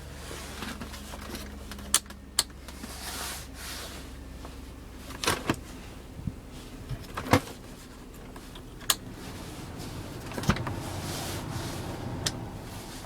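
2000 Toyota Sienna's 3.0-litre V6 idling just after a cold start, heard from inside the cabin as a steady low hum. Scattered sharp clicks from the interior sound over it, about seven in all.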